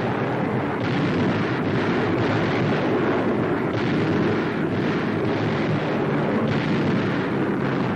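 Dubbed newsreel air-raid sound effects: a steady, dense rumble of aircraft engines with faint thuds of explosions about every second.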